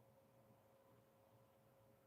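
Near silence: faint background hiss with a faint steady high hum.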